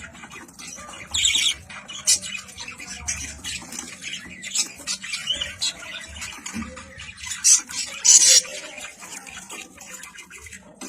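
Pet birds squawking and chirping in many short high calls, with louder harsh squawks about a second in and again about eight seconds in.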